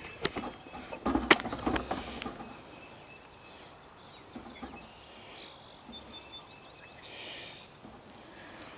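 A few sharp knocks and rustles in the first couple of seconds, then small birds chirping and singing faintly outdoors for the rest of the time.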